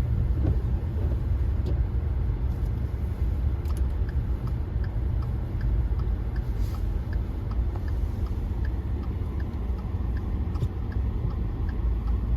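Steady low road rumble of a car driving on snow-covered roads, heard from inside the cabin. A light, regular ticking joins it from about four seconds in.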